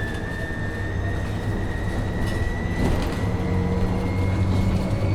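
Inside a MAN Lion's City NL253 Hybrid bus on the move: a steady low drive hum with a thin whine that climbs slowly in pitch as the bus gathers speed. A couple of brief rattles come about two to three seconds in.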